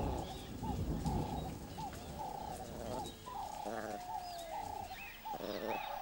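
Birds calling over and over: a short, hooked note about twice a second, with thin higher chirps joining in during the second half and two brief buzzy calls, about four and five and a half seconds in.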